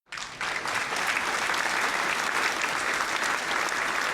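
Applause: many hands clapping in a dense, steady patter that starts abruptly.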